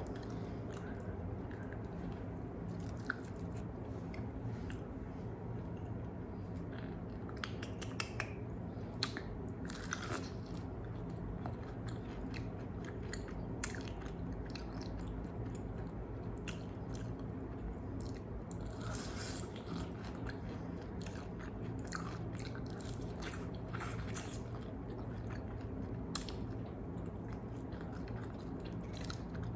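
Close-miked biting, chewing and crunching of crispy fried chicken wings, with irregular crackly crunches scattered over a steady low hum.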